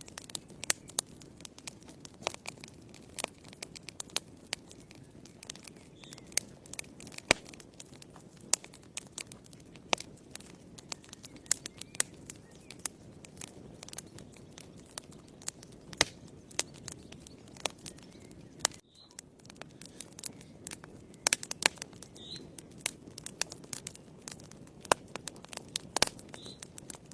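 Wood fire burning in a fireplace: frequent sharp, irregular crackles and pops over a soft, steady low rush of flames.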